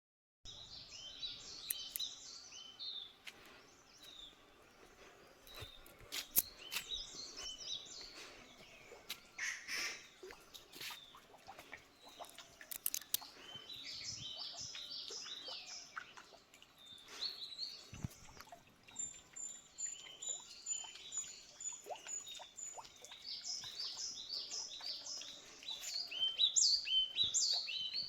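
Small birds chirping and singing in quick repeated high notes, with a few sharp clicks mixed in. A thin, steady high note holds for about three seconds past the middle.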